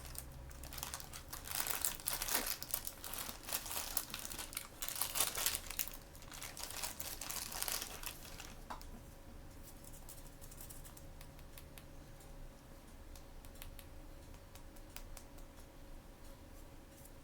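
A blind-bag wrapper crinkling and tearing as it is handled and opened. There is dense crackling for about the first eight seconds, then only occasional light clicks and rustles.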